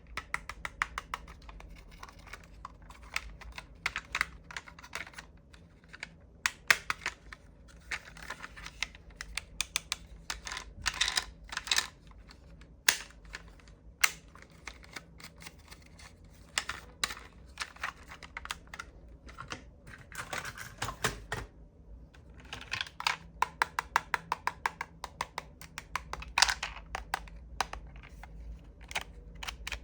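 Diecast model cars being handled: runs of small, sharp clicks and taps, some in quick rattling series.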